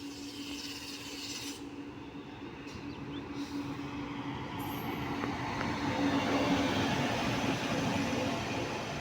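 A train approaching on the line, its rumble growing louder and peaking about six seconds in, over a steady hum.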